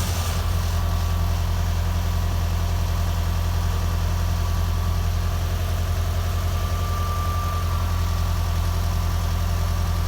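A steady, low-pitched motor hum with a fast, even pulse, like an idling engine, with a faint high tone over it.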